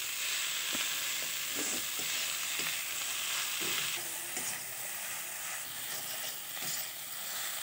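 Potato and pea mixture sizzling in an iron kadhai while a flat steel spatula stirs and scrapes it in short strokes. The hiss eases slightly about halfway through.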